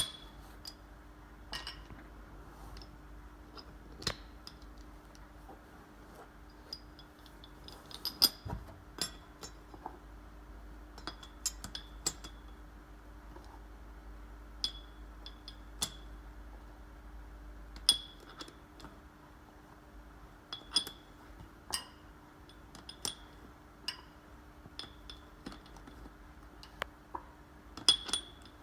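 Light, sharp clinks and clicks of small hard objects at irregular intervals, a few per second at times, over a faint steady hum.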